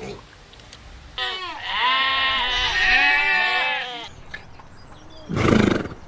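A goat bleating once in a long, wavering call of about three seconds, rich in overtones. Near the end comes a short, loud, breathy burst.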